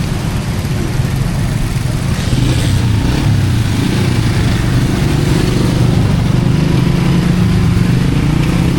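A vehicle's engine running close by, growing louder about two seconds in.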